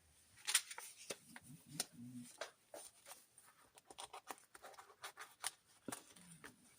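Paper and card being handled in a handmade journal: soft, irregular rustles, taps and scrapes as pages are turned and a paper piece is slipped into a tuck pocket.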